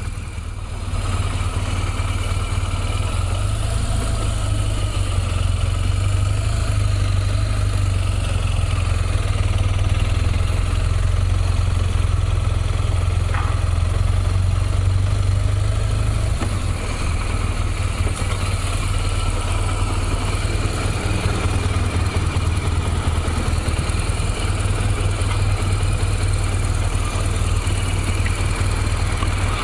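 Motorcycle running at a steady cruising pace, its engine a constant low rumble under steady wind and road noise.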